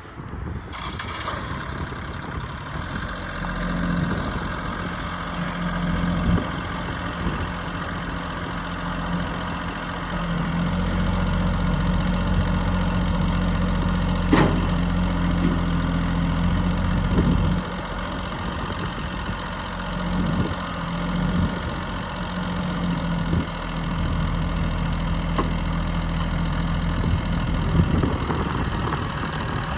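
Bobcat CT1021 sub-compact tractor's diesel engine running, its steady hum growing louder and dropping back several times. There is one sharp click about halfway through.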